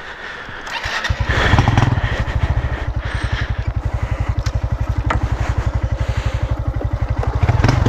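A 160 cc single-cylinder motorcycle engine comes up about a second in and keeps running steadily, with an even, rapid pulse.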